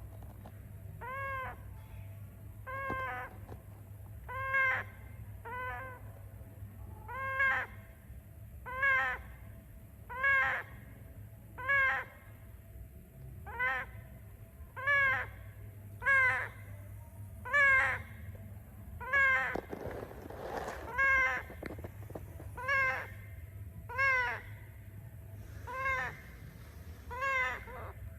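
A parrot calling over and over, a short rising-and-falling call about once every second and a half, with a brief rustling noise about two-thirds of the way through.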